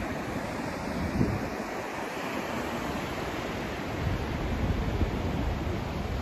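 Steady rushing sleep-noise track, a dense hiss with a rumbling low end like surf, swelling slightly about four seconds in.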